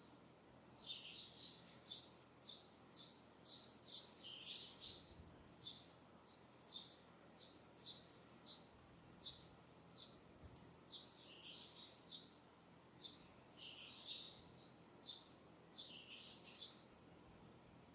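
Small songbirds chirping: a continuous run of short, high notes, several to the second, some rising and some falling.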